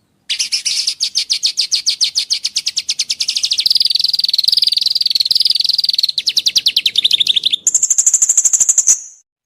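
Songbird song played as masteran training material: a fast series of sharp, high chirps at about nine notes a second. Near the end it changes to a higher, continuous trill, then cuts off abruptly.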